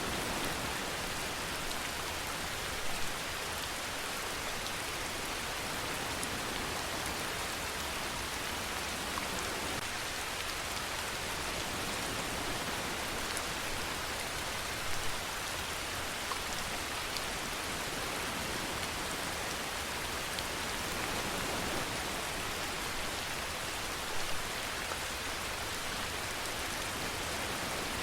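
Steady rainfall, an even patter of drops, with a few brief louder spatters about three seconds in, around the middle and near the end.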